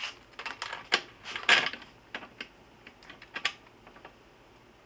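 Irregular clicks and clacks of small metal seat-belt hardware being handled and fitted, the loudest about one and a half seconds in.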